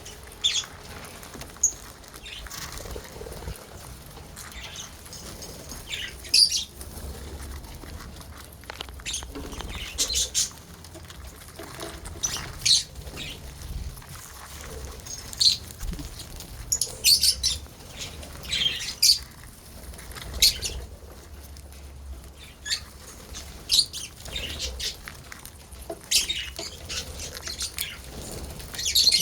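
Lovebirds giving short, sharp, high-pitched chirps and squawks, one or a few at a time, at irregular intervals every second or two.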